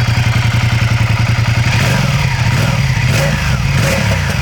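Ducati Diavel S's 90-degree V-twin engine running with an even, pulsing idle, then revved in short blips of the throttle from about two seconds in, the pitch rising and falling.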